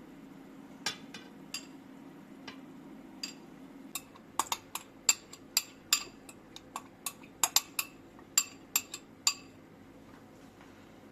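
Kitchenware clinking: a string of sharp, ringing clinks, a few at first, then quick and irregular for several seconds before stopping, over a steady low hum.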